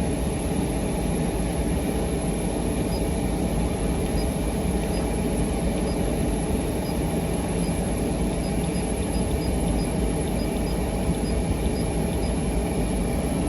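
Komatsu PC240LC-10 excavator's diesel engine idling steadily, heard inside the cab with the air-conditioning fan blowing.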